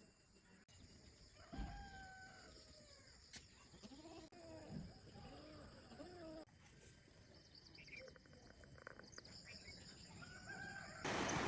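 Village chickens clucking, a series of short, rising-and-falling calls, over a steady high-pitched drone. A loud rushing noise starts just before the end.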